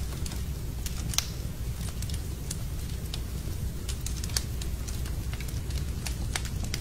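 Wood fire burning in a fireplace, crackling with sharp pops at irregular intervals over a steady low rumble; the loudest pops come about a second in and again about four and a half seconds in.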